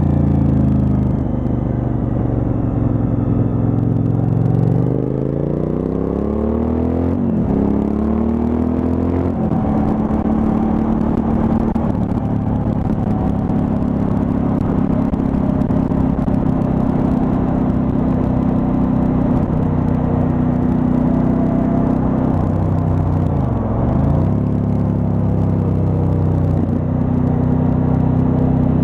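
Suzuki V-Strom 1000's V-twin engine running under way: the engine note falls over the first few seconds, climbs again, then holds a steady cruising pitch. About three quarters of the way through it drops sharply for a moment and picks straight back up.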